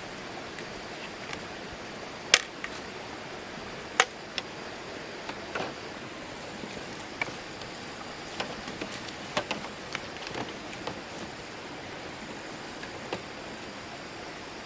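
Scattered sharp knocks and clicks over a steady hiss. The two loudest strikes come about two and four seconds in, and a cluster of lighter knocks comes around eight to eleven seconds.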